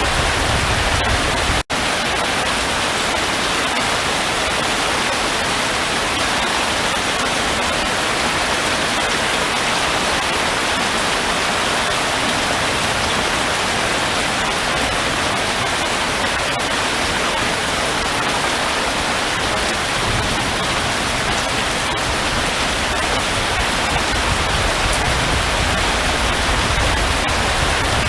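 Steady rain falling, an even hiss with no breaks, apart from a split-second drop-out of the audio about two seconds in.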